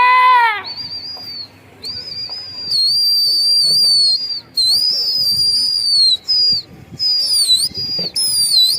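A person whistling shrilly and repeatedly, long high whistles that hold, dip and swoop in pitch with short breaks, the kind of whistling a pigeon keeper uses to work a flock in the air. It opens with a short call that rises and falls in pitch.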